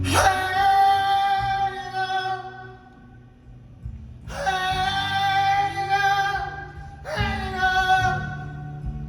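Live band music: a high voice sings three long held notes without words over a low sustained accompaniment.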